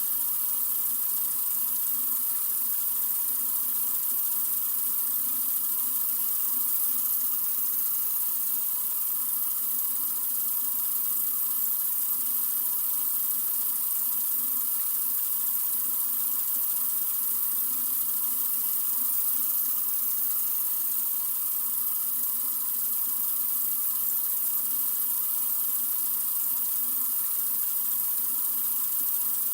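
Sink faucet running in a steady, continuous stream: an even hiss of water that doesn't change.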